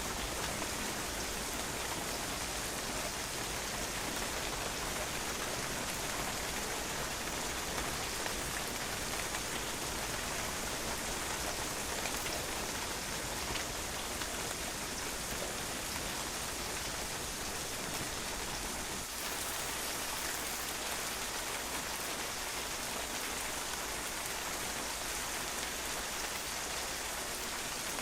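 Steady rain falling on a patio, water drops pattering and splashing on the hard surface in an even, unbroken hiss.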